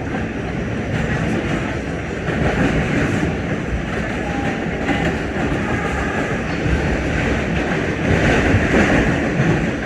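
Steady running noise heard from inside an R68 subway car in motion: a loud, even rumble and hiss from the wheels and running gear, rising a little near the end.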